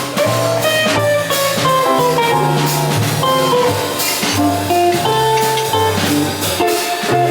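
Live jazz band playing: a bass line of low notes moving step by step under a melody line, with drum kit hits and cymbals throughout.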